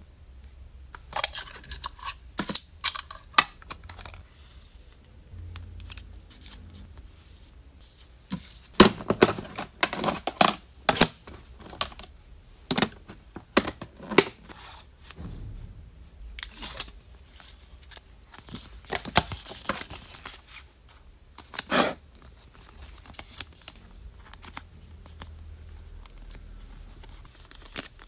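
Packaging being wrapped by hand: scissors snipping, material tearing and wrapping crinkling, in irregular bursts of sharp clicks and short rustles with brief pauses between.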